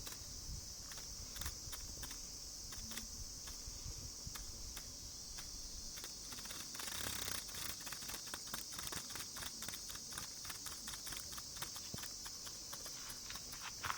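A steady high-pitched insect chorus drones in the background. Over it come small dry clicks, scattered at first and then coming thick and fast, irregularly, from about halfway through.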